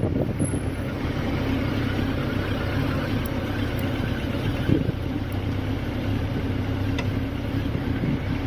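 2005 Honda CB1300's inline-four engine running at a steady, even speed.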